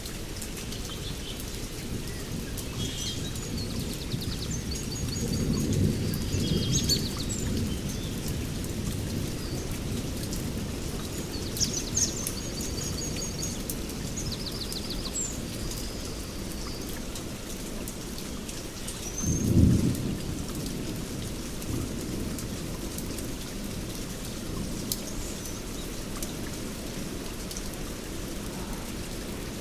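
Steady rain falling in a rainforest with thunder. A low rumble swells about five seconds in, and a louder, sharper thunderclap comes about two-thirds of the way through. Birds call in the first half with quick, high, repeated notes.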